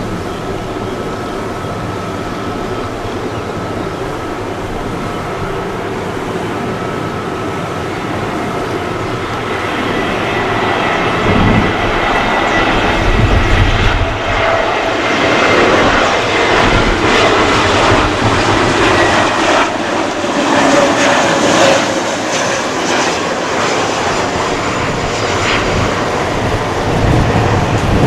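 Airbus A320neo's Pratt & Whitney geared turbofan engines running, with a steady whine over a rumble. The sound swells loud from about ten seconds in as the jet passes close by, then eases a little near the end.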